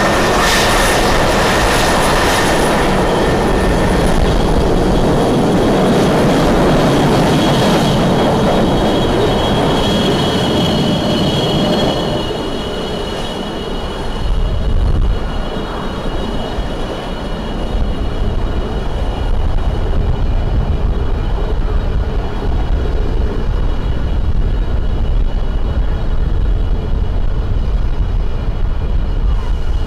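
Jet fighter engines running with a loud, steady noise and a high turbine whine. About twelve seconds in the sound dips briefly, then a deeper low rumble takes over.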